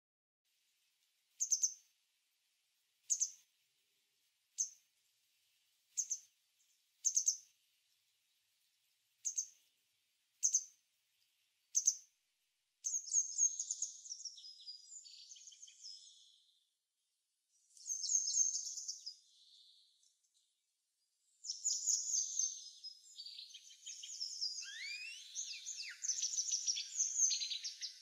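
Small songbirds calling: single thin, high calls about every second and a half, then from about halfway through, longer bursts of rapid twittering, with some notes sliding in pitch near the end.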